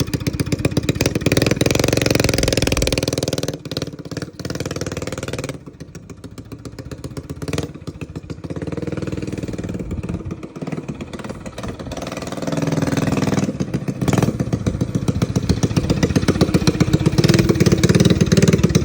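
Mini bike's 212cc Predator single-cylinder four-stroke engine running while the bike is ridden. It gets quieter about six seconds in and again around ten seconds, then louder from about twelve seconds on.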